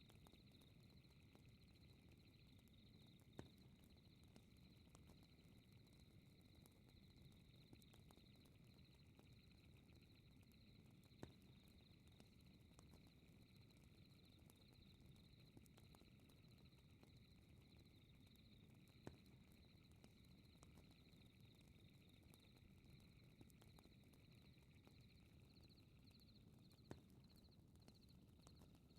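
Very quiet fireplace ambience: a fire crackling with faint ticks and a sharp pop about every eight seconds, over a low steady rumble and a continuous high-pitched pulsing chirr.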